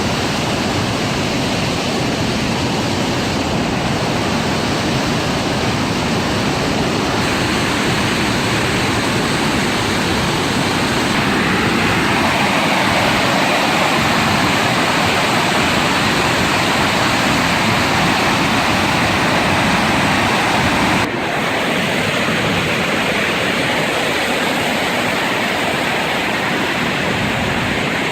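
Swollen floodwater pouring over a dam, a loud, steady rush of water with no let-up. Its tone changes abruptly a few times.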